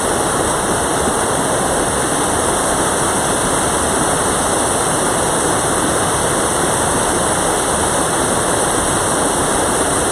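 Mountain valley stream rushing, a steady loud wash of water.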